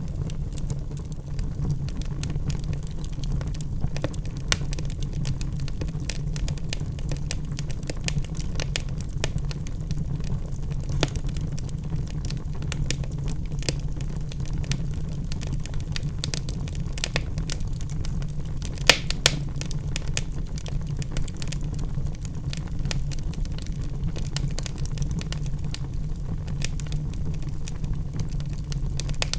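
Logs burning in a fireplace, crackling with frequent small pops and snaps over a steady low rumble of the flames. A sharper cluster of pops comes about two-thirds of the way through.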